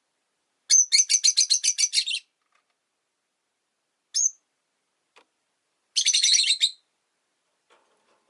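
Rosy-faced lovebirds chirping: a rapid, shrill string of about ten chirps, a single short chirp, then another quick burst of chirps near the end.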